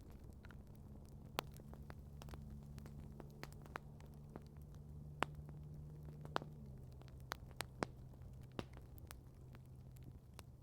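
Campfire crackling: scattered sharp pops and snaps at irregular intervals, a few much louder than the rest. Under it runs a low steady hum that drops in pitch about two-thirds of the way through.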